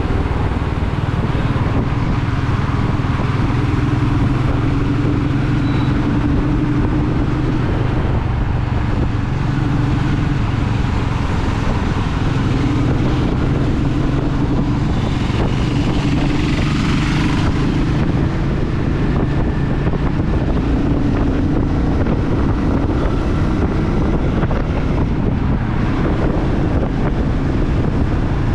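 Royal Enfield Meteor 350's single-cylinder engine and exhaust running at a steady cruise, with wind on the microphone. A brief rush of noise rises and fades about halfway through.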